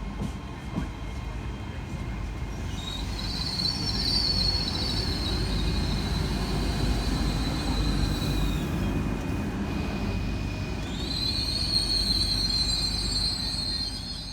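Great Western Railway Class 802 train moving through the station with a steady rumble. Two long, high-pitched steel-on-rail squeals come over it, the first from about three seconds in and the second from about eleven seconds in.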